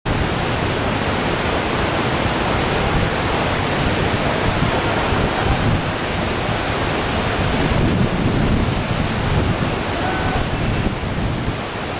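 Whitewater of a two-step river rapid rushing steadily, a dense even noise of falling and churning water.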